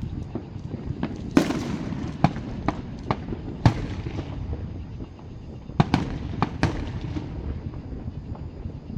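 Fireworks shells bursting in the distance: a series of sharp bangs at uneven intervals, a few in quick pairs, some trailing off in an echo.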